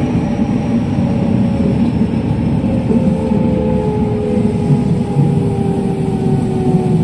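JR West 207 series electric train's traction motors whining inside the car, several tones sliding slowly down in pitch as the train slows for the next station, over the steady low rumble of wheels on the track.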